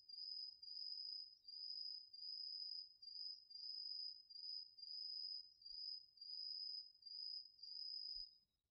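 An autumn singing insect, taken for a cricket, calling in an even series of high-pitched trills, each about half a second long with short gaps between, roughly one and a half a second. The song cuts off abruptly near the end.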